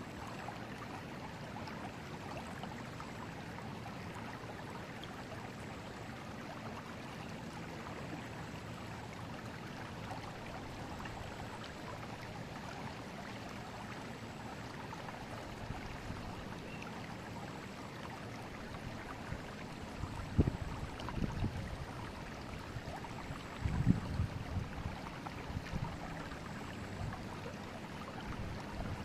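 Forest river flowing steadily, an even rushing of water. About two-thirds of the way through, and again a few seconds later, short bursts of low rumble rise above it.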